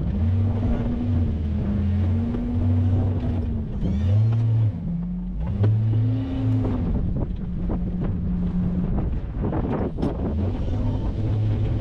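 A truck engine running, its pitch rising and falling again and again as it revs up and eases off, with a few sharp knocks about ten seconds in.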